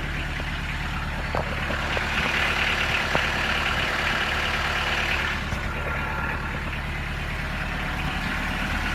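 Kubota B2710 tractor's three-cylinder diesel idling steadily while it warms up after a cold start without glow plugs. A brighter hiss rides over it for a few seconds in the middle. The owner notes an exhaust leak on this engine.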